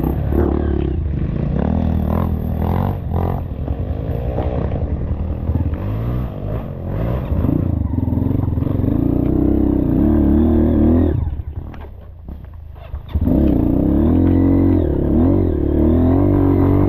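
Motorcycle engine revving up and down repeatedly under load in mud. It drops away briefly about two thirds of the way through, then revs hard again.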